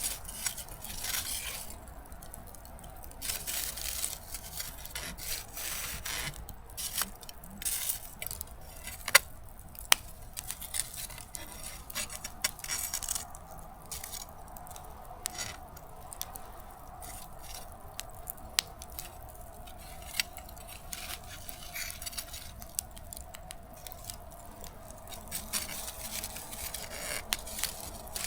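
Small wood campfire burned down to embers, crackling and popping irregularly, with two sharp snaps about nine and ten seconds in.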